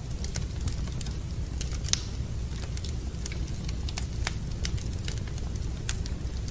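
Fire in a fireplace crackling: irregular sharp pops and snaps over a steady low rumble, with one louder pop about two seconds in.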